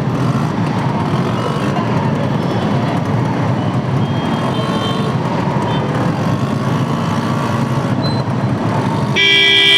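Engines of motorbikes and cars running in a slow, packed traffic jam, a steady rumble. About nine seconds in, a vehicle horn starts sounding loudly.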